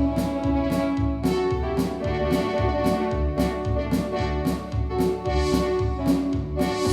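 Yamaha DX7 FM synthesizer playing held chords and a melody over a bass line and a steady drum beat.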